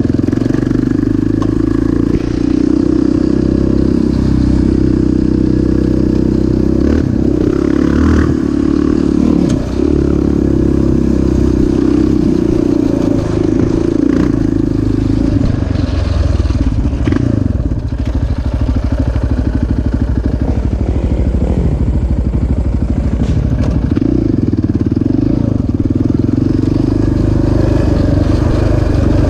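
Off-road vehicle engine running loud and close throughout, its pitch rising and falling with the throttle, with a few knocks over rough ground.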